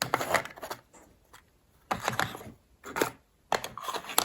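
Small hard objects being handled and rummaged through, clattering and rustling in four short bursts with pauses between.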